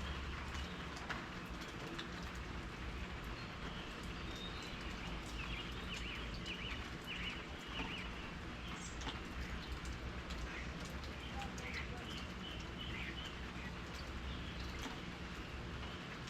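Steady rain falling, with many small drop ticks, and a bird chirping in short bursts of calls about a third of the way in and again later.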